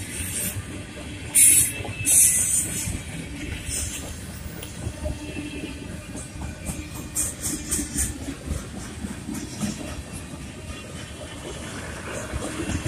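Freight train cars rolling past: a steady rumble of wheels on rail with clicking at the rail joints. Two loud, high hissing bursts come about one and a half and two seconds in.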